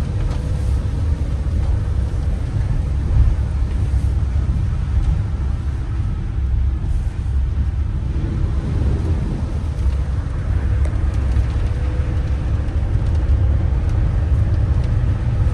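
A vehicle driving, with a steady low engine and road rumble throughout.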